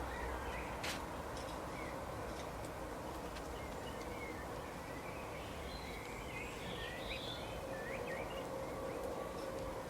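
Outdoor ambience with birds chirping, short twittering calls that thicken in the middle, over a steady background hiss, with one sharp click about a second in.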